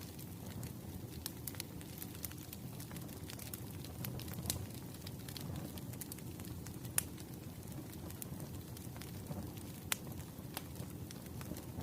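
Firewood burning in a fireplace: a steady low rumble of flames with scattered sharp crackles and pops of the logs. A few louder pops come about four and a half, seven and ten seconds in.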